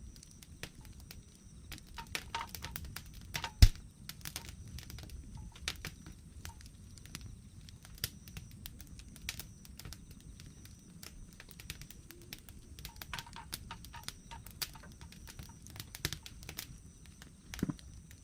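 Wood fire crackling: scattered pops and clicks over a low steady rumble, with one loud sharp snap about three and a half seconds in and another near the end.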